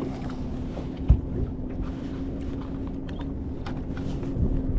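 A steady low hum over a low rumble, with one loud dull thump about a second in and scattered light clicks and knocks, as from a small boat's hull and fishing gear being handled while a fish is landed.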